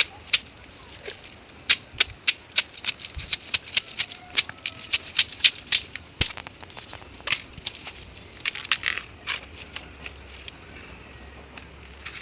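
A fast, irregular run of sharp crackling snaps, several a second, thinning out after about six seconds.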